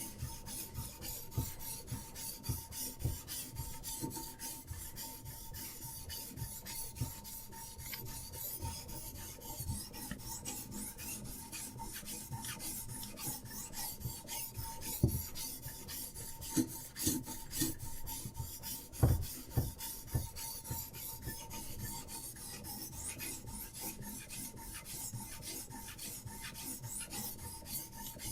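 Diamond sharpening stone on a Hapstone RS guided sharpener rasping along a knife edge in repeated strokes, with a few louder knocks near the middle.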